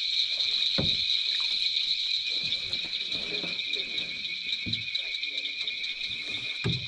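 A steady, shrill chorus of night insects at two pitches, unbroken throughout, with a soft low thump about a second in.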